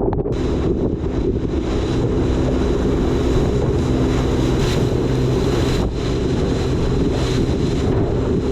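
Boat motor running steadily under way, with a constant low hum and heavy wind buffeting the microphone.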